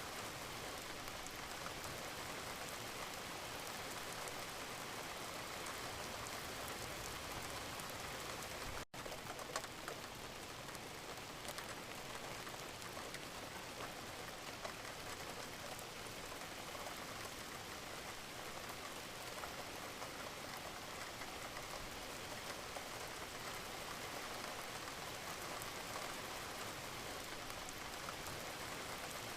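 Steady rain falling, an even hiss with a fine patter of individual drops. About nine seconds in the sound drops out for an instant and comes back with a click, like a splice in a looped recording.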